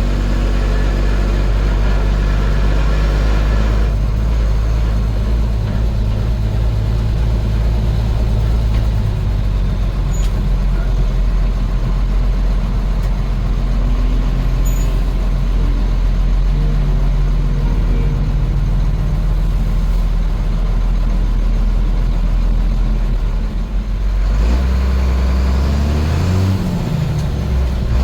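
International DT466 turbo-diesel truck engine running steadily under way. Near the end it dips briefly, then climbs in pitch again, as at a gear shift.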